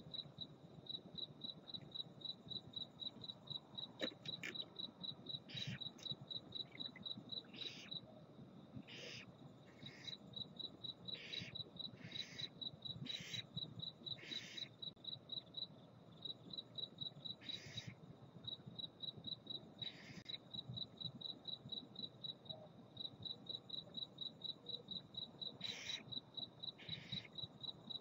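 A cricket chirping in a steady rapid pulse, over which barn owls give about a dozen short, harsh hissing calls of about half a second each, spaced irregularly.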